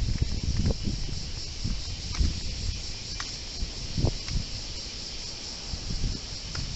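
Typhoon wind gusting and buffeting the microphone in irregular low rumbles, over a steady high hiss.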